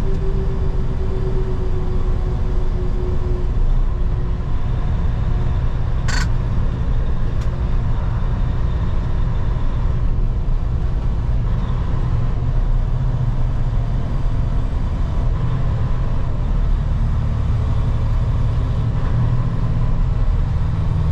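Semi-truck diesel engine and road noise heard from inside the cab, a steady low drone as the tanker, loaded to 80,000 lb, drives on; the engine note shifts a couple of times, and there is one short click about six seconds in.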